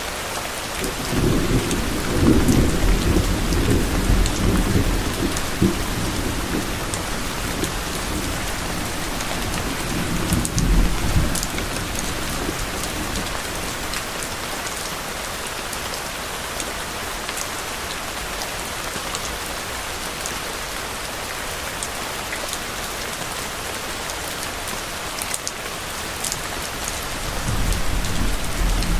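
Steady rain falling, with a long, low rumble of distant thunder starting about a second in, swelling again and fading out after about twelve seconds, and another low rumble building near the end.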